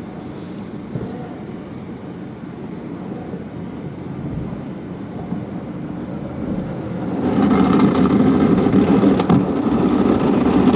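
Automated car wash equipment running, heard from inside the car's cabin as a steady wash of noise. About seven seconds in it grows sharply louder and denser as the machinery comes up close, loud enough to upset a child who dislikes noise.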